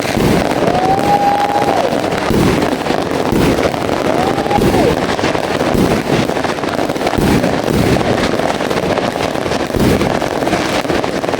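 Fireworks going off in quick succession, a dense run of bangs and crackles without a break, with crowd voices calling out over them.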